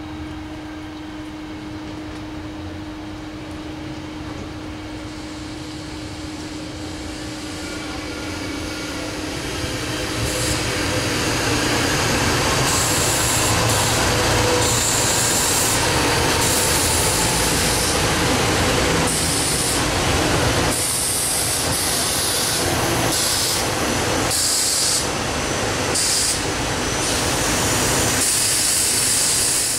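Electric train passing on the line: the rail noise builds over the first ten seconds or so, then stays loud as a steady rush with a high hiss that cuts in and out repeatedly.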